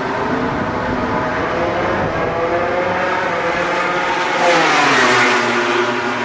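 MotoGP racing motorcycle accelerating past, its engine note climbing steadily for about four seconds, loudest about five seconds in, then dropping in pitch as it goes by.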